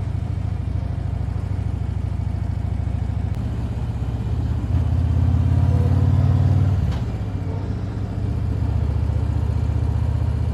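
Harley-Davidson V-twin motorcycle engine running at highway cruising speed. The engine note steps up about three seconds in, grows louder for a couple of seconds, eases back around seven seconds, then picks up again.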